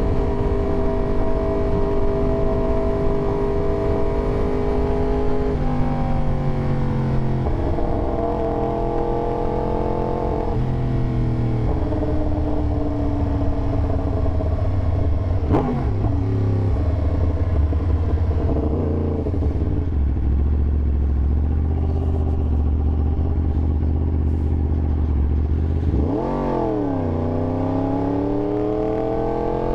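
Yamaha YZF-R1 sportbike's inline-four engine under way. Its note holds steady at first, then steps and falls several times, as with gear changes and slowing. About 26 seconds in it swings sharply and then climbs again as the bike accelerates.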